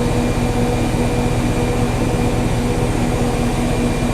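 Whirlpool Duet Sport front-load washer in its high-speed final spin, about 1200 RPM: a steady motor hum with a constant whining tone over the rumble of the spinning drum.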